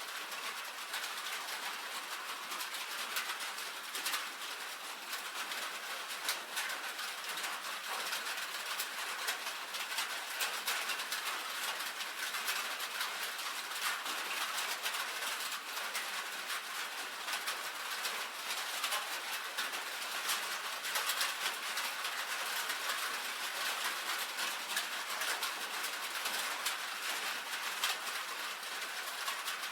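Steady rain on a tin roof: a dense, even patter of countless small drop ticks with no low rumble.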